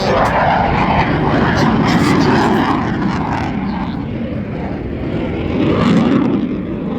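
Aircraft engine noise from an airplane in flight, a steady rushing that swells about two seconds in and again near the end.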